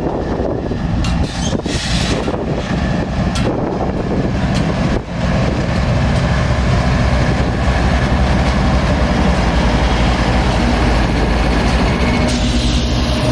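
Diesel freight locomotives of an intermodal train running past, a steady low engine drone that settles to full strength about five seconds in.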